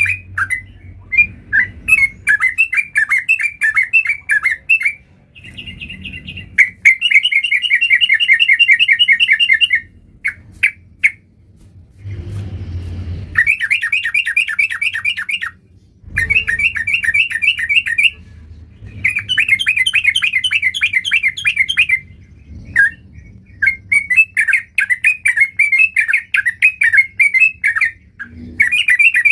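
Yellow-vented bulbul (trucukan) singing in repeated phrases of rapid, chattering notes, each a few seconds long, with short pauses between.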